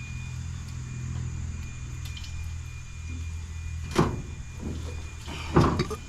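A vehicle engine idling with a steady low hum, and two loud knocks of scrap metal being handled, about four seconds in and again near the end, the second the louder.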